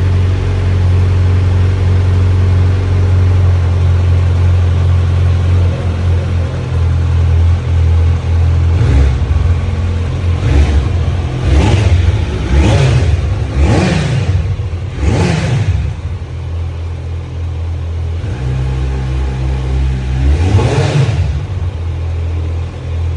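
Kawasaki Z900's inline-four engine idling steadily after a cold start, then revved in a quick run of about six throttle blips starting about nine seconds in, each rising and falling in pitch, with one more blip near the end.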